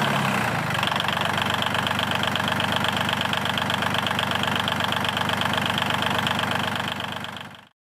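Small electric motor of a DIY model chaff cutter running steadily with a fast, even rattle from its drive. The pitch shifts a little under a second in, and the sound fades out near the end.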